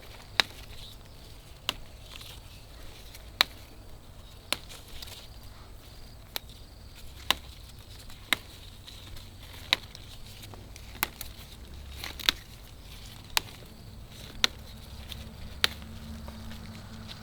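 Chopping with a blade: sharp single strokes, about one a second and fairly even, some fourteen in all. Behind them runs a faint steady drone of insects.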